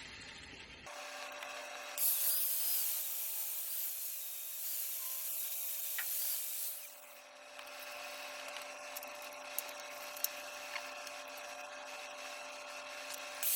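Plasma cutter cutting steel brackets off a car's lower control arm: a loud, even hiss from about two seconds in to about seven seconds, then a quieter hiss with a few sharp ticks, over a steady hum.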